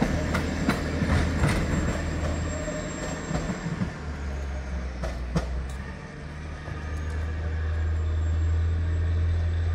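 Narrow-gauge train of red coaches, hauled by an MK45 diesel-hydraulic locomotive, pulling away with its wheels clicking over the rail joints, the clicks thinning out after the first couple of seconds. A steady low rumble dips briefly about six seconds in, then grows louder toward the end.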